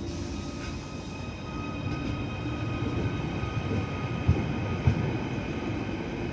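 Passenger train running at the station platform: a steady electric whine over a low rumble that grows louder, with two sharp knocks about half a second apart past the middle.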